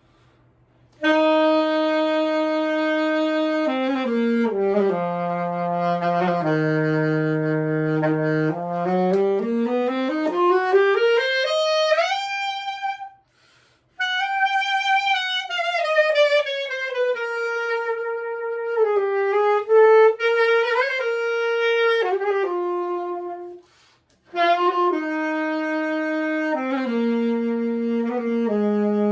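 Solo instrumental melody: a single line of held notes that step down and then slide smoothly up and down, played in three phrases with short breaks about 13 and 24 seconds in.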